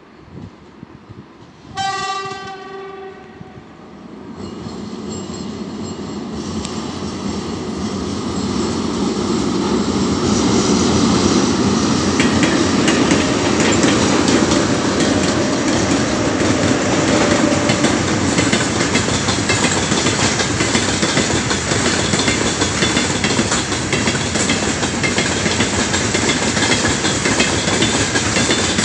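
A set of 2ES5K "Ermak" electric locomotives sounds its horn once, a single steady note about a second and a half long, about two seconds in. The locomotives and the heavy freight train then grow louder as they pass close by, and the wagons keep up a steady clatter over the rails.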